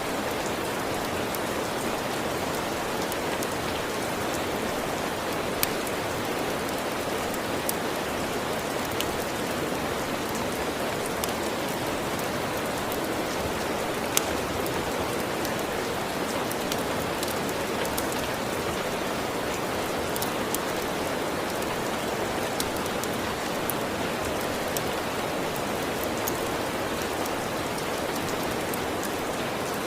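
Steady rain falling, an even hiss of drops on a surface, with scattered sharp ticks or crackles here and there, the sharpest one near the middle.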